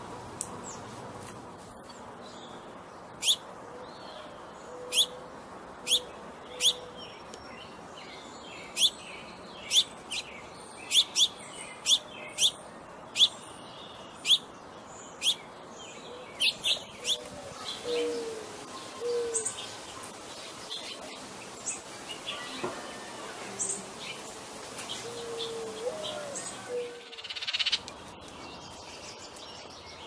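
A songbird giving a series of sharp, high chip calls, about one a second, each sweeping downward, followed by softer, lower whistled notes in the second half.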